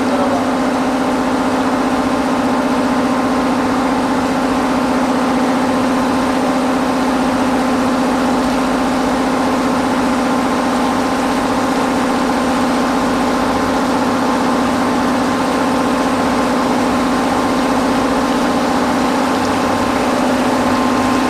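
Steady running hum of heavy electric machinery, with a strong low tone and a fainter higher whine over a rushing noise.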